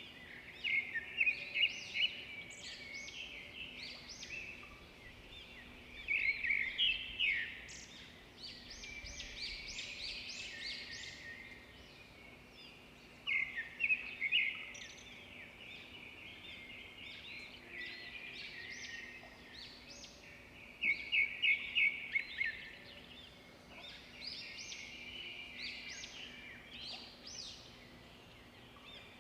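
Several small birds singing and chirping together in a dense chorus of short, high calls, broken every several seconds by louder bursts of fast repeated notes. A faint steady low hum runs underneath.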